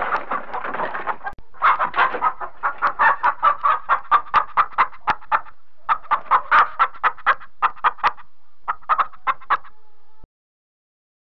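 Hens clucking: a longer, noisier call at the start, then a fast run of short clucks, about four or five a second, with two brief pauses. The clucking stops about ten seconds in.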